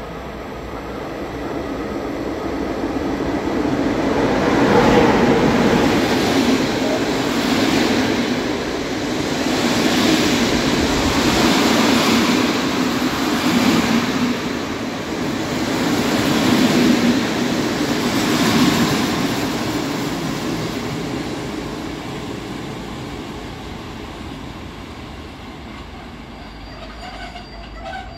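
Electric-hauled passenger train pulling into a station: the rolling rumble of the locomotive and coaches on the rails swells several times as the cars pass close by, then fades as the train slows to a stop.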